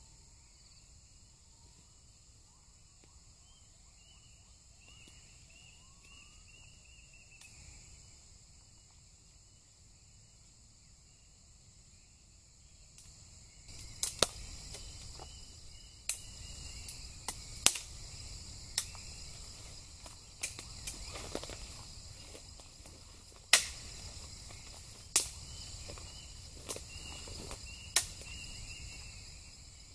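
Insects buzzing steadily, with short chirps. About halfway in, a louder crackling background starts, with sharp irregular pops a second or two apart, like a campfire crackling.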